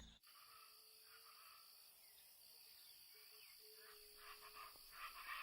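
Near silence: faint outdoor nature ambience, with a thin steady high insect-like hum, a few soft chirps, and light ticking that grows slightly louder near the end.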